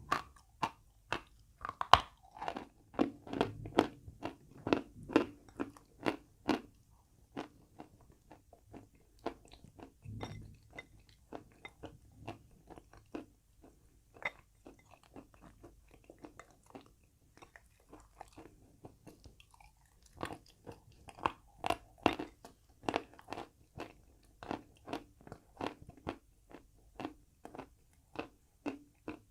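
Chalk being bitten and chewed, a run of crisp crunches. The crunching is dense at first, thins out and softens through the middle, then comes thick and fast again from about twenty seconds in.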